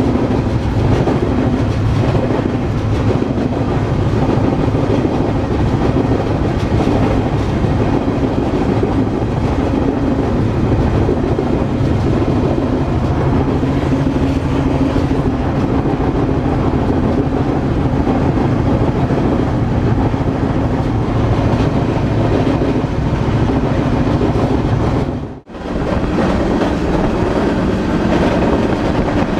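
Moving freight train heard from aboard: a steady, loud rumble of wheels on rail with clickety-clack. It drops out for a moment about four seconds before the end, then resumes.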